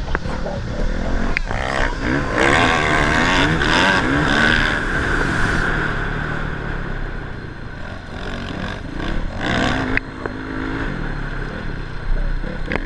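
Motocross dirt bike engines revving, their pitch repeatedly rising and falling with the throttle and gear changes, several bikes overlapping.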